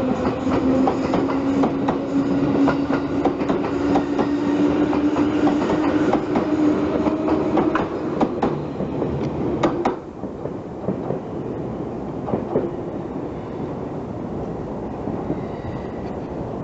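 Electric local train running on the rails, with rail-joint clicks and a motor whine that rises slowly in pitch. About ten seconds in, the whine stops and a quieter rumble carries on.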